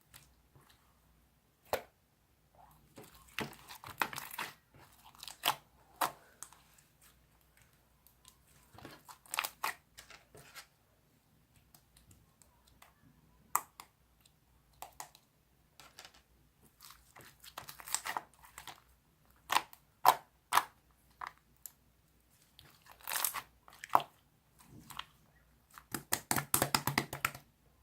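Glossy 'juice' slime being squeezed, stretched and poked by hand, giving irregular sticky pops and crackles in scattered clusters, with a dense run of rapid pops near the end.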